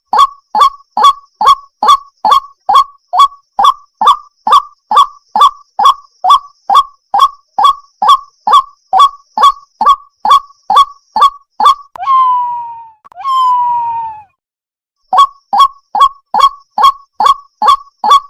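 Waterhen calling: a rapid series of short, clipped notes, about two and a half a second, each dropping slightly in pitch. About twelve seconds in the series gives way to two longer falling calls and a brief pause, then the rapid notes start again.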